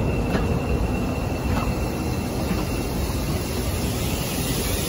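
Moving railway coach running along the track: a steady rumble of wheels on rail with a few faint clicks from rail joints.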